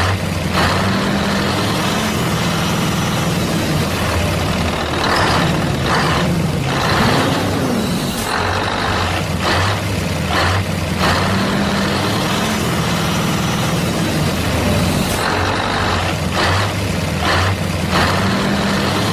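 Heavy truck engine running, its pitch rising and falling a little, with repeated short hissing bursts like air brakes.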